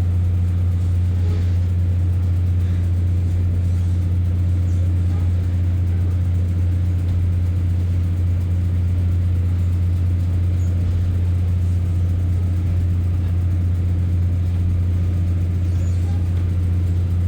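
Class 144 Pacer diesel railbus running steadily, a constant low drone with no change in pitch or level.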